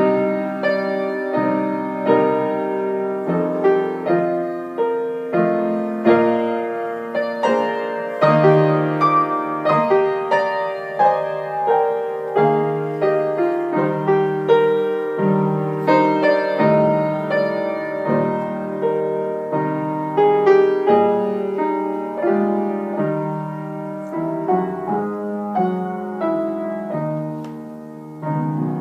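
Solo piano playing a song, with notes and chords struck in a steady flow, each ringing and fading. The playing softens near the end before another note sounds.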